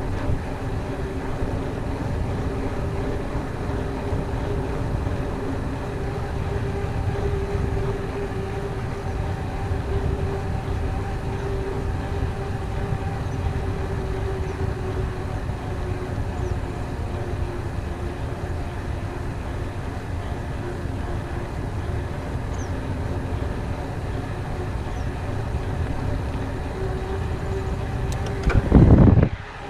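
Mountain bike rolling fast along a dirt trail: steady tyre and drivetrain noise with a constant hum, and wind rumbling on the camera microphone. A loud low rush sounds once near the end.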